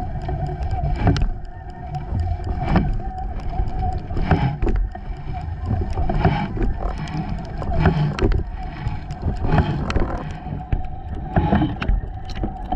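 Boat under way: a motor running steadily with a constant whine and a heavy low rumble, broken by loud thumps about every one and a half to two seconds.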